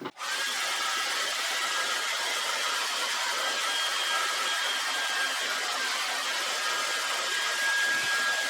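A small electric blower running steadily close by: an even rush of air with a faint high whine.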